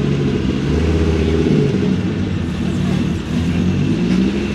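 A car engine running with a low, steady exhaust note that shifts slightly in pitch.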